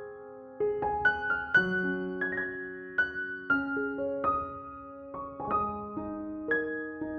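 Soft background piano music: slow, gently struck notes and chords left to ring.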